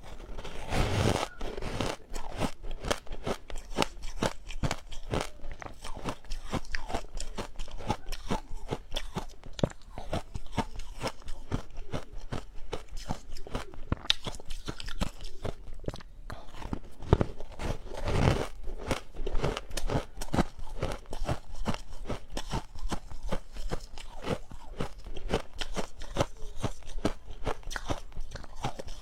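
Ice being chewed up close, a dense run of rapid crunches and crackles as the teeth break it down.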